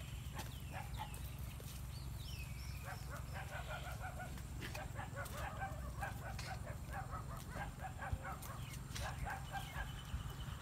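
Birds calling in short repeated notes, with a few swooping chirps in the first three seconds, over a steady low rumble, with light rustling clicks from goats browsing on leafy branches.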